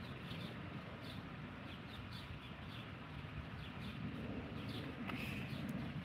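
Small birds chirping in short, high calls, repeated throughout, over a low steady rumble.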